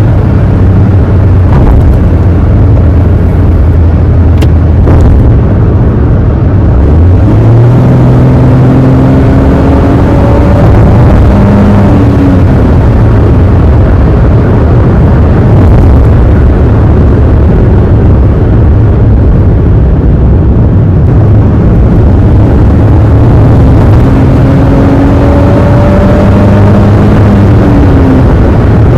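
Honda N-ONE's 660 cc three-cylinder engine running steadily with the air conditioning on, which makes it work hard; its pitch rises once about seven seconds in.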